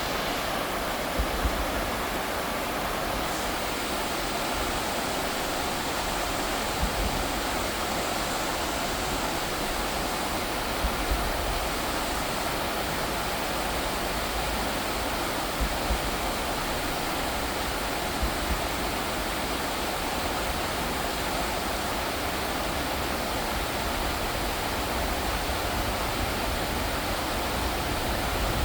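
Rain-swollen stream rushing steadily: a dense, even hiss of fast-flowing water.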